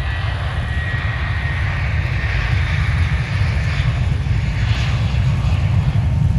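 Aeroplane taking off and climbing out: a broad rushing engine noise that swells to its loudest midway and then eases, over a heavy low rumble.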